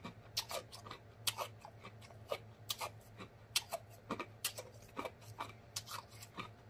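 A person chewing food close to the microphone, with wet mouth clicks and smacks coming at an irregular pace, about two or three a second.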